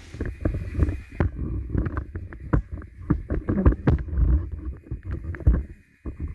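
Model train running along the layout track: a low rumble with many irregular clicks and clatters that fades briefly near the end.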